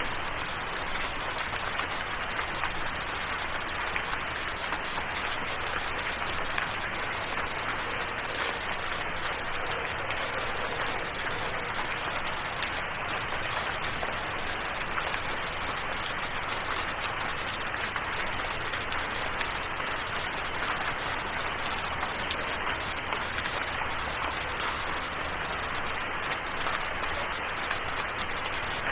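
Steady rain falling, an even wash of noise with scattered small drop ticks throughout.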